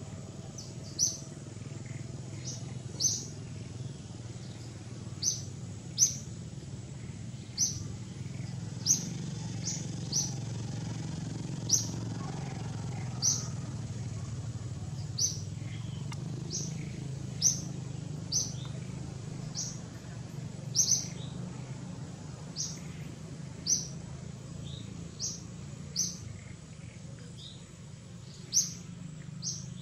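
A bird repeating a short, sharp, high-pitched chirp every second or two, over a steady low background hum.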